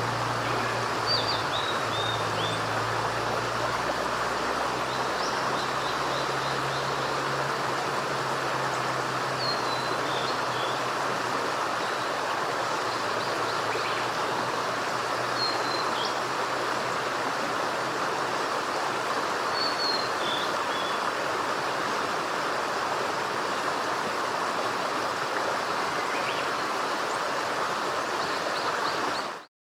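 A steady rushing noise like a running stream, with a small bird's short, high calls every few seconds. A low hum, like a distant vehicle, fades out in the first ten seconds or so, and everything cuts off abruptly near the end.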